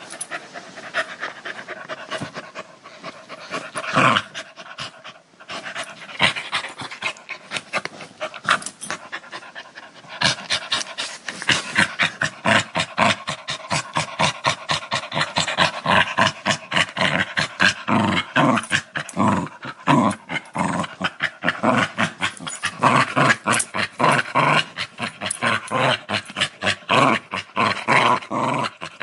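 Dog growling and panting; from about ten seconds in it turns into quick, rhythmic breaths, about three or four a second.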